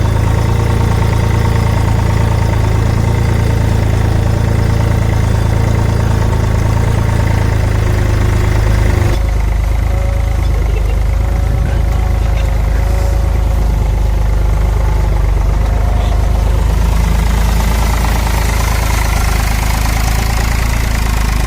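Eicher tractor's diesel engine running steadily. Its tone changes abruptly about nine seconds in, and a hiss grows over the last few seconds.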